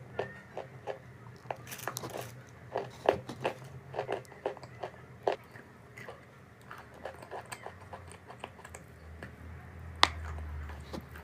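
A person biting and chewing chalk close to the microphone: irregular sharp crunches, several a second, with one louder snap about ten seconds in.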